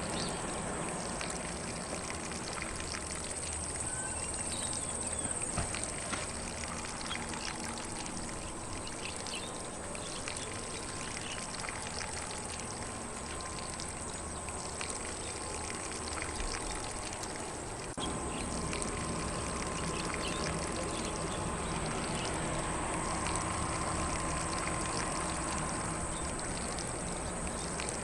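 Lawn sprinkler spraying water onto grass: a steady hiss of spray with fine pattering droplets, a little louder from about two-thirds of the way through. Faint birdsong behind it.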